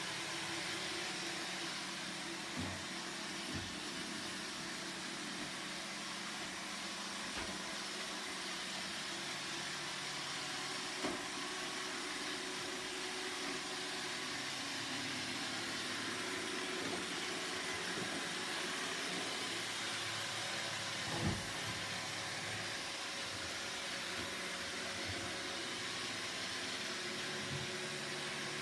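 Roomba robot vacuum running steadily, a whirring motor and brush noise, with a few short knocks as it bumps into things, the loudest about 21 seconds in.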